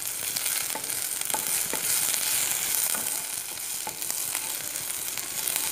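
Chopped garlic and a dried red chilli sizzling in a little oil in a non-stick pan over a low flame, with a steady frying hiss and the faint ticks and scrapes of a spatula stirring against the pan.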